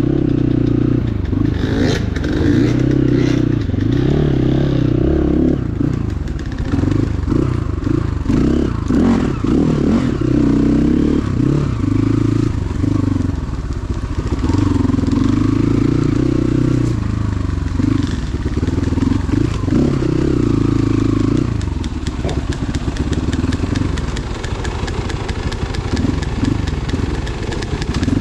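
Motorcycle engine running, its revs rising and falling again and again.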